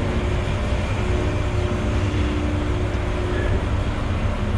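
Grain truck's engine running steadily with a low rumble, heard from inside the cab, with a faint steady whine for a couple of seconds in the middle.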